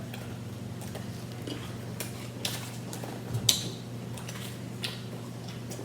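Close-up eating sounds: crispy fried chicken sandwiches being bitten and chewed, with scattered short crunches and mouth clicks, the loudest about three and a half seconds in. A steady low hum runs underneath.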